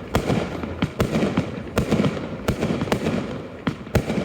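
Fireworks display: a string of sharp bangs from bursting shells, about one to two a second, with steady crackling between them.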